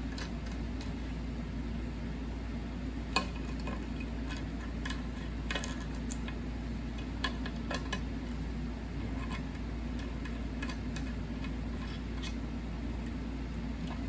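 Scattered small clicks and taps of slot-machine pushbuttons and their plastic washers being handled and fitted back onto the glass panel, the sharpest click about three seconds in, over a steady low hum.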